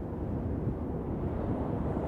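Wind blowing steadily, a deep, even rushing with most of its weight in the low end and no gusts or breaks.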